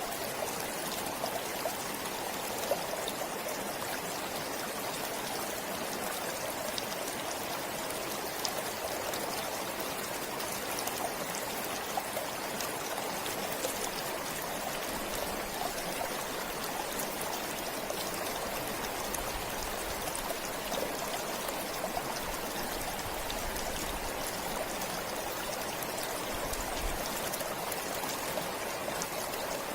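Forest stream flowing steadily: a continuous rush of water with many small trickles and splashes.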